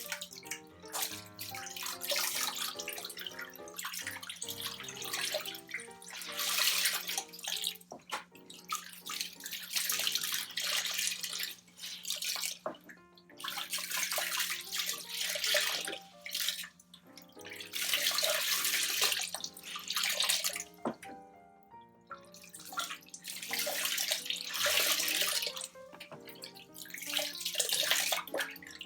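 Water sloshing in the tub of a Della portable twin-tub washing machine, in bursts a couple of seconds long with short pauses between them, over background music.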